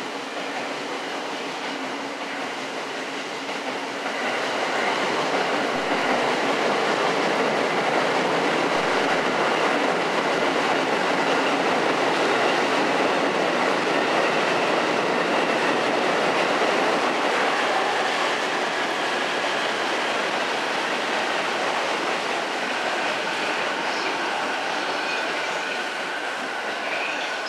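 Electric train moving through the station, its wheels rumbling and clicking over rail joints. The sound swells about four seconds in, holds, then eases off after about twenty seconds, with faint steady high tones on top.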